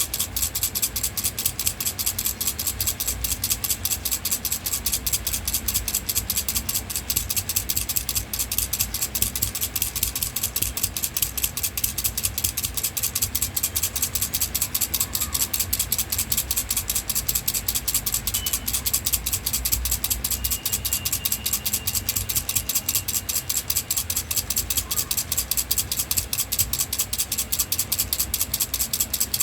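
Baby rattle shaken steadily, a fast, even rattling that keeps up without a break.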